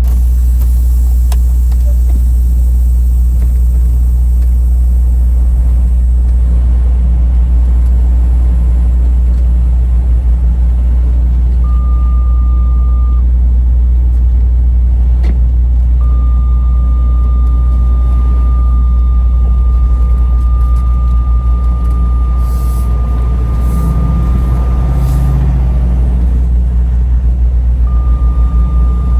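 Semi truck rumbling steadily, a heavy low drone, with a thin high electronic tone that comes on three times, once briefly and once for about nine seconds.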